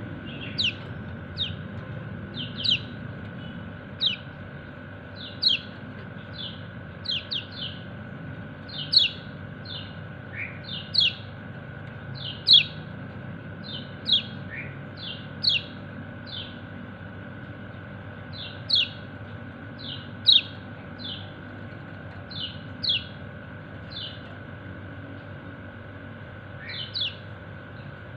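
Kecial kuning white-eye giving its sharp 'ciak ciak' contact calls: short, high, falling chirps, singly or in quick pairs and triplets, about one to two a second, calling to its companions. A faint steady hum lies underneath.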